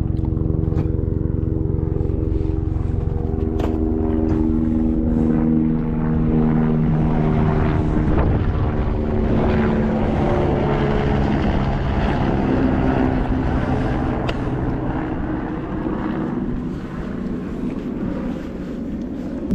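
A passing engine drones steadily, its pitch dropping partway through as it goes by, and it eases off slightly near the end.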